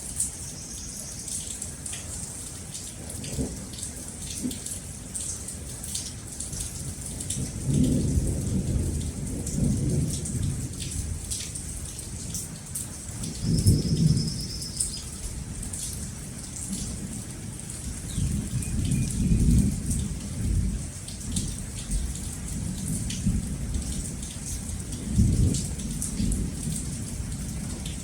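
Steady rain with dripping drops, and thunder rumbling in several long rolls that swell and fade, the loudest about halfway through.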